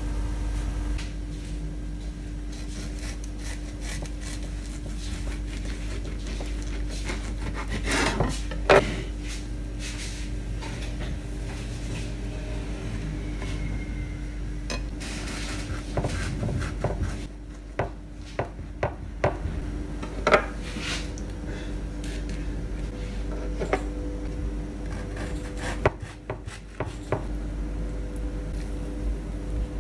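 Scattered light knocks and scrapes of things being handled, over a steady low hum.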